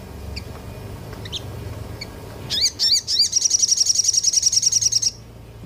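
Small songbird singing: a few faint high chirps, then two quick sweeping whistles and a loud, rapid, high-pitched trill of about ten notes a second that lasts nearly two seconds and stops abruptly.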